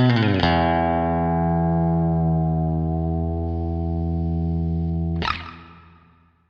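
Music: guitar chords ringing on, with a new chord struck just after the start, then a final strum about five seconds in that fades out to silence, closing the song.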